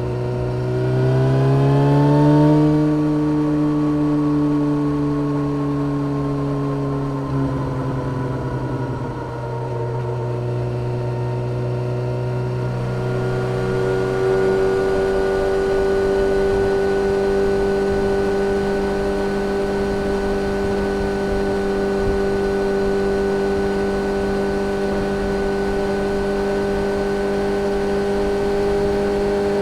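A 2013 Yamaha XJ6-S's inline-four engine running through a full Black Widow exhaust system with no catalytic converter and a carbon-fibre can, ridden on the road. The engine note rises briefly about a second in and holds. It eases off and dips around eight to nine seconds in, then settles into a long steady cruise at a higher pitch.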